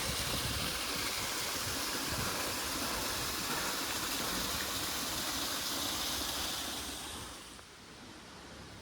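Steady rushing water, an even hiss that falls away about seven and a half seconds in.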